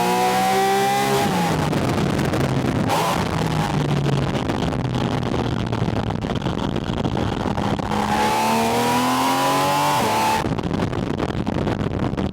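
Porsche 718 Spyder RS's 4.0-litre flat-six, heard through a microphone on its air intake. The revs climb, then drop sharply about a second in. The engine runs steadier for several seconds, climbs again, and drops off sharply near the end, with wind noise throughout.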